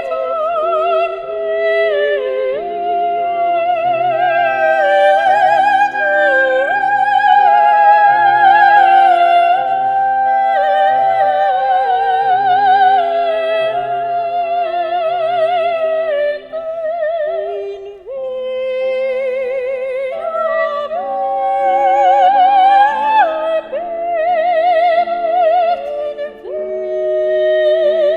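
A solo classical singer with wide vibrato sings a slow, sustained melody over steady, held accompaniment chords.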